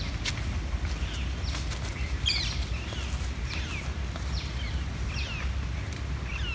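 Birds chirping outdoors: a scatter of short, downward-sliding calls, several a second at times, over a low steady rumble.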